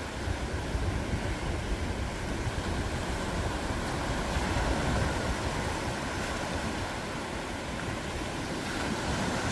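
Ocean surf breaking and washing on a beach: a steady rushing noise that swells a little around the middle, with a low rumble underneath.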